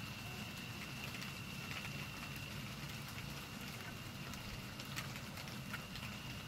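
Big raindrops and pea-sized hail starting to fall, scattered sharp ticks of drops and hailstones hitting surfaces over a steady hiss of rain.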